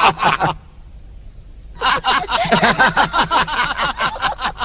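A cartoon character's voice: a brief vocal sound, then after a short pause about three seconds of rapid, choppy vocalizing without clear words.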